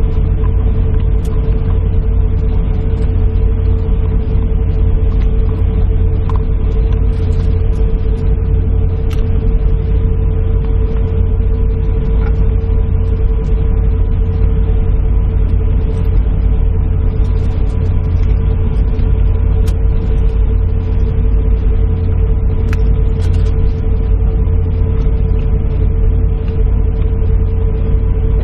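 Airliner cabin noise: a steady low rumble with a constant droning hum, unchanging throughout.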